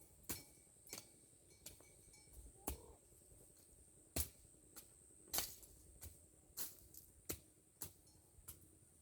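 Faint, irregular sharp clicks and knocks, about one a second, the loudest about four and five and a half seconds in, over a steady high-pitched hiss.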